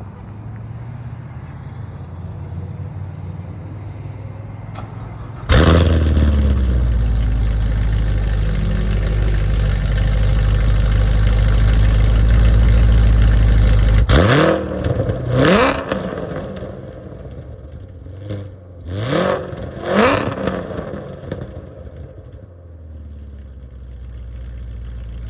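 Supercharged 2016 Chevrolet Corvette Z51's LT1 V8 running low, then suddenly loud about five seconds in and holding a steady, loud run for some eight seconds. It is then blipped four times in sharp revs that rise in pitch and fall back, and settles to idle near the end.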